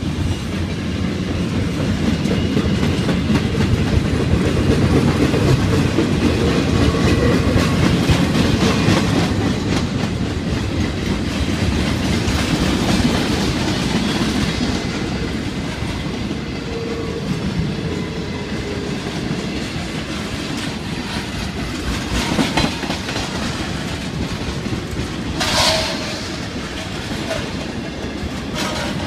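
Freight cars of a maintenance-of-way train rolling past: a steady rumble of steel wheels on rail with clickety-clack over the rail joints. One short, louder burst cuts through about three-quarters of the way in.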